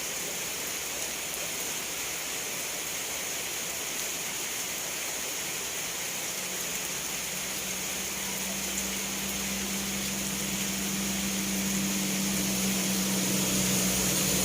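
Steady rain, an even hiss with no separate drops standing out. From about halfway a low steady hum rises beneath it and grows louder toward the end.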